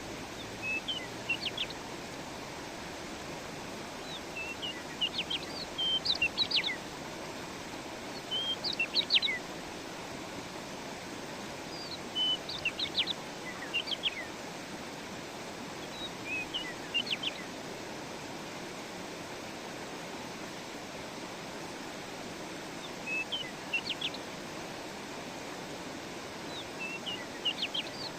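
A songbird singing short phrases of quick, high chirps and trills, repeated every few seconds with a longer pause in the second half, over the steady rush of a flowing stream.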